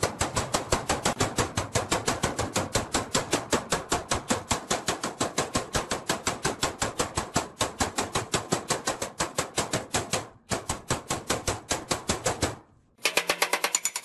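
Rapid, even striking at about six or seven blows a second, with two brief pauses near the end, as in work on the mixer's parts.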